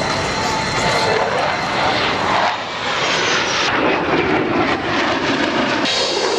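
Loud airplane engine noise from aircraft flying past, a dense rush that changes abruptly a few times where the footage is cut.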